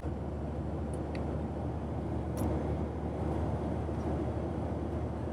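Steady low rumble of a car in motion heard from inside the cabin: engine and road noise, with a few faint ticks.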